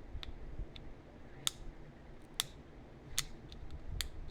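Pressure flaking a heat-treated chert point: four sharp clicks about a second apart, with a few fainter clicks between them, over a low rumble of the piece being handled.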